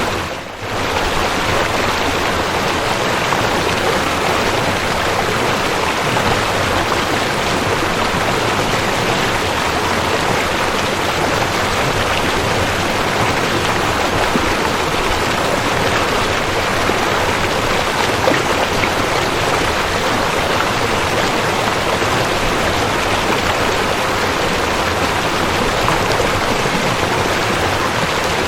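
Waterfall: a steady rush of falling water, with a brief dip in level just after the start.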